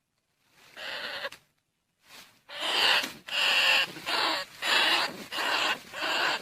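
Rat lure call: recorded squeals of rice-field rats and bandicoot rats. It starts from dead silence with one harsh cry, then after a short gap comes a run of cries about half a second long, roughly one and a half a second.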